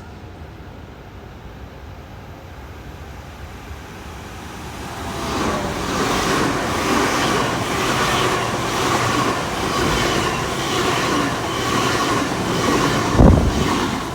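GWR Class 800 IET train passing along the line, building up about five seconds in and then running loud, with a regular clatter of wheels over the rail joints about one and a half times a second. A sharp low thump comes near the end.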